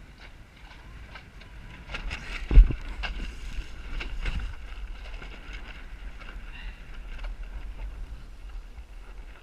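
Wind rumbling on the microphone aboard a small Snark sailboat under way in strong wind, with scattered knocks and one loud thump about two and a half seconds in.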